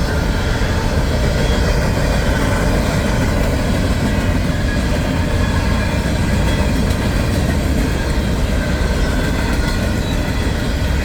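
Empty coal train rolling past, its wheels on the rails making a loud, steady noise that does not let up.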